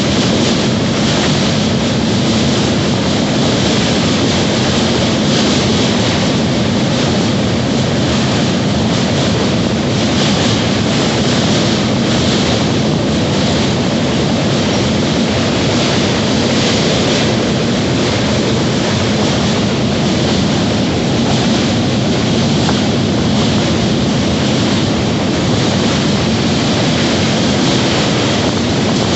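Train running at steady speed, with a continuous rumble and rush of wheels on the rails.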